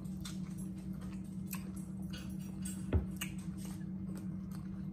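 Close-up eating sounds of people chewing fried catfish: faint wet mouth clicks and smacks, with one sharper knock about three seconds in, over a steady low hum.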